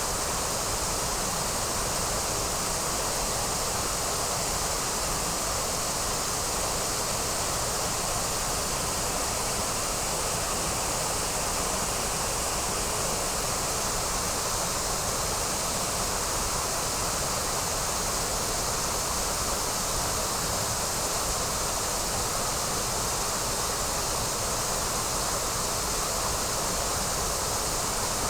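Rushing water of the Trevillet River, a steady even rush with no break or change.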